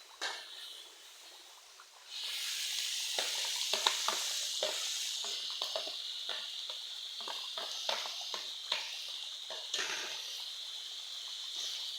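Stuffed tofu frying in hot oil: a sizzle that starts suddenly about two seconds in and keeps going steadily, with many small pops and crackles.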